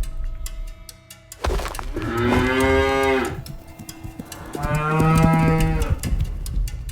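Cow mooing twice, each moo a drawn-out call of about a second, with a short pause between them.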